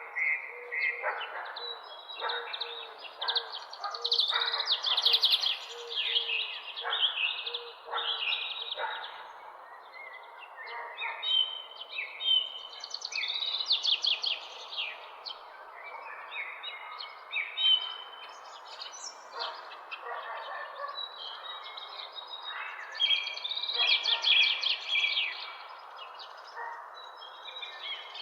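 Several birds chirping and singing at once in an early-morning chorus, with quick overlapping chirps and trills coming in waves, over a steady background hiss.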